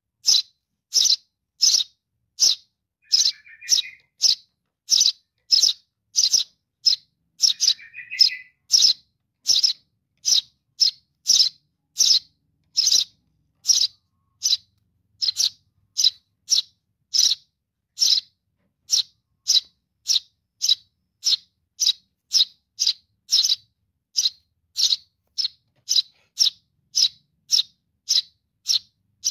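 Eurasian tree sparrow chick calling for its parent, a steady run of short, high chirps about two a second, with a lower, harsher call twice in the first third. These are begging calls for food.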